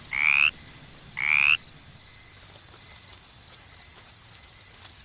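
Male glass frog giving its advertisement call to attract a mate: two short calls about a second apart, each rising slightly in pitch.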